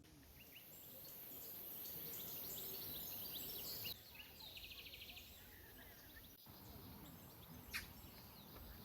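Faint forest ambience with birds chirping: many short high calls, and a quick trill about four seconds in. A steady high hiss sits over the first four seconds and stops abruptly.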